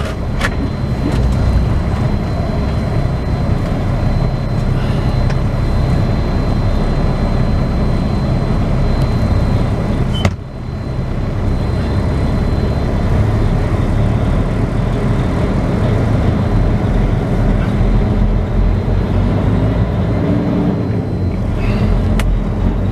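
Semi truck's diesel engine running at low speed, a steady low rumble heard from inside the cab, with a brief drop about ten seconds in.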